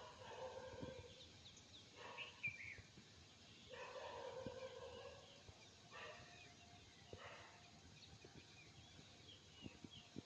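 Faint short chirps from a small bird, over several longer, lower sounds of about a second each.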